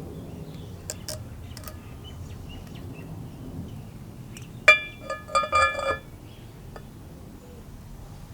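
A few light clicks, then a sharp metallic clink that rings on briefly, followed by several more ringing clinks over the next second, as of small metal parts or tools knocking together.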